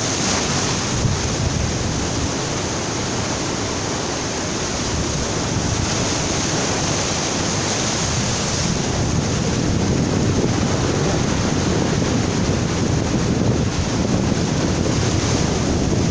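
Strong ocean surf breaking on a beach, a steady rushing wash of waves, with wind buffeting the microphone.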